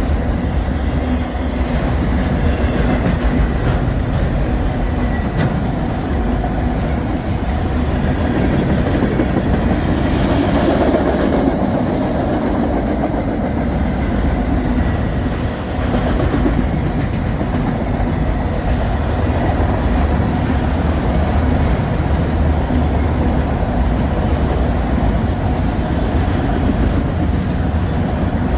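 Freight train passing at trackside, its railcars rolling by with a steady, loud rumble on the rails.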